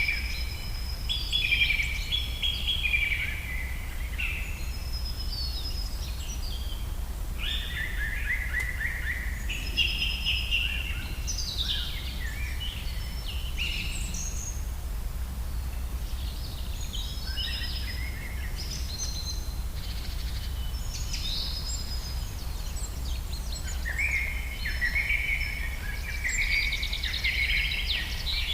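Songbirds singing in short, repeated chirping phrases, with a quieter stretch in the middle, over a steady low rumble.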